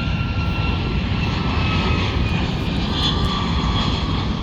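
Boeing 757 jet engines passing loud and close: a heavy, steady rumble with a thin high whine that slowly falls in pitch as the aircraft goes by.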